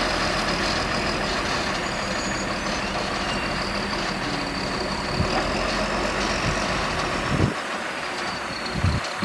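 Heavy diesel earthmoving machinery running steadily, with a few short knocks in the second half. The deep engine rumble drops away about seven and a half seconds in.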